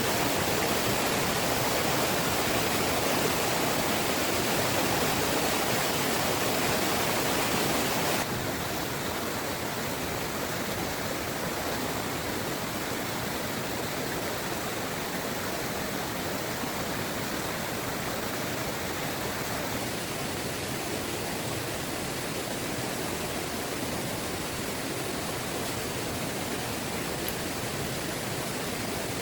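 Heavy rain pouring steadily, a dense even hiss; it drops a little in level about eight seconds in.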